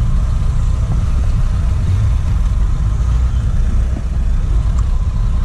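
Honda CG 160 motorcycle's single-cylinder engine idling with a steady low rumble.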